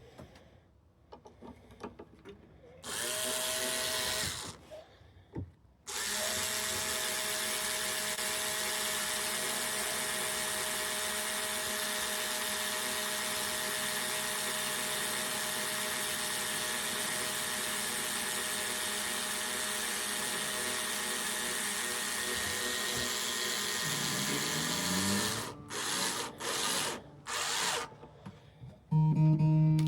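A small handheld power tool runs briefly, then steadily for about twenty seconds, then in a few short spurts as it is switched on and off. At the very end a Martin D16 acoustic guitar is strummed.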